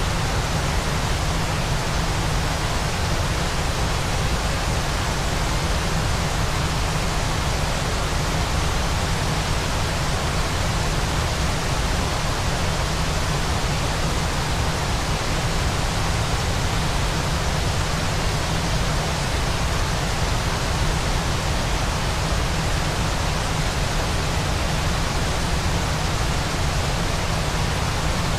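Steady, unbroken rushing of a waterfall, even throughout, with a heavier low rumble beneath the hiss.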